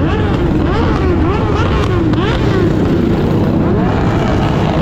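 Several mini bike engines revving up and down, their pitches rising and falling against each other over a steady low rumble.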